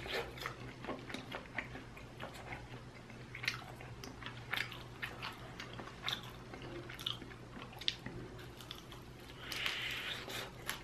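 Close-miked mouth sounds of a person chewing chicken: soft, irregular wet clicks and smacks, with a crunchier bite into a piece near the end.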